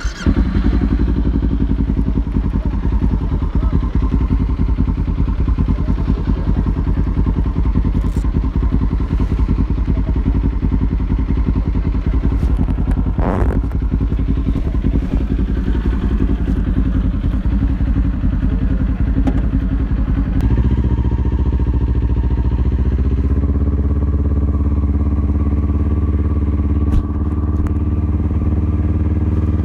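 Kawasaki Ninja 400 parallel-twin engine running steadily through a full aftermarket sports exhaust, with a dense even pulse at a near-constant engine speed. About twenty seconds in, the sound turns deeper and fuller.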